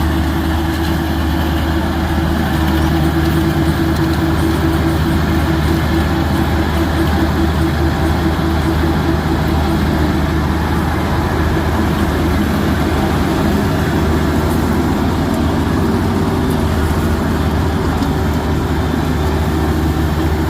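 Combine harvester running: a steady, loud engine drone with a machinery hum over it, getting a little louder about two seconds in.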